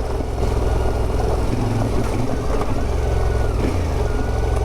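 CFMOTO 450MT's parallel-twin engine running as the motorcycle rides a dirt road, with the engine note shifting about one and a half to two seconds in.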